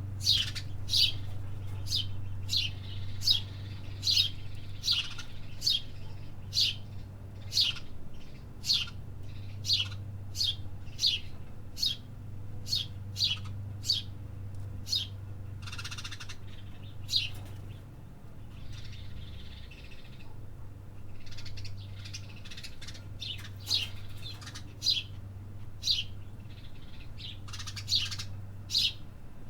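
Small birds chirping in a steady series of short, sharp chirps, about one to two a second, easing off briefly about two-thirds of the way through. A steady low hum runs underneath.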